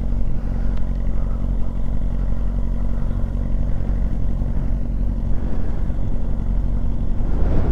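Motorcycle engine running steadily at low revs, its pitch holding even, with wind noise on the microphone; the sound shifts near the end.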